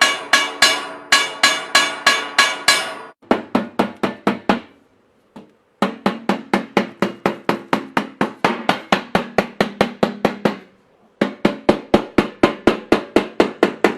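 Rapid, evenly paced hammer blows on metal, about four strikes a second, each one ringing. They come in three runs with short pauses between them.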